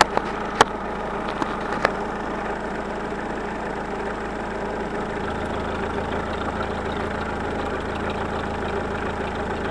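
Worn car engine with 263,000 km on it idling warm, with the light clatter of its hydraulic lifters. A few sharp clicks come in the first two seconds.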